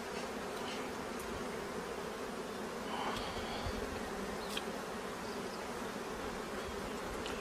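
Honeybees buzzing steadily, a continuous drone of many bees around their nest.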